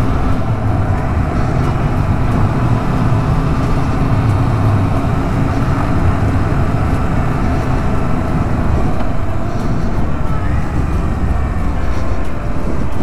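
Yamaha MT-07 parallel-twin motorcycle engine running steadily while under way, mixed with wind and road noise.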